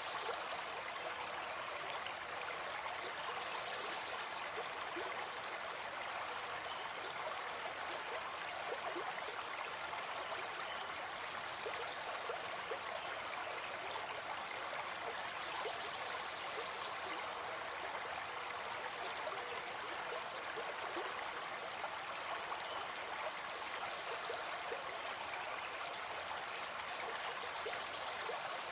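Gentle forest stream flowing steadily, a continuous even rush of running water.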